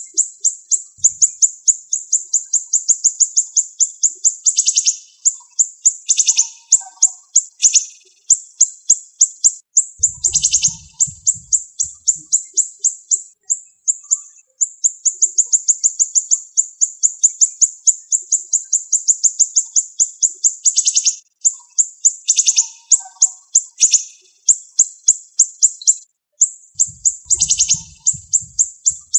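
Siri-siri songbird singing long, fast trains of sharp, high repeated notes, many a second, broken now and then by short pauses. A brief low rumble sits under the song twice, about ten seconds in and near the end.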